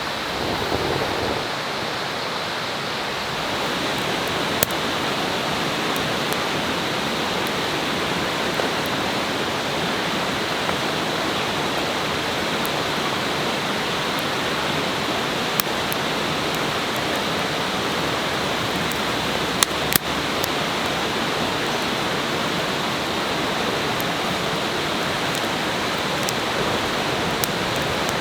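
Steady rush of a flowing river, with a few sharp clicks over it.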